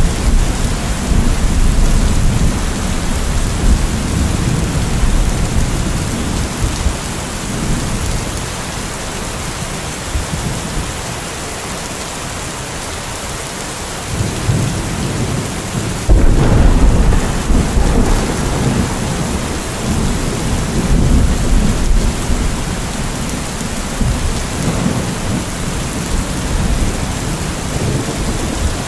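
Steady rain with rolling thunder. The rumbling eases off about ten seconds in, then a sudden loud thunderclap breaks about sixteen seconds in and rolls on through the rest.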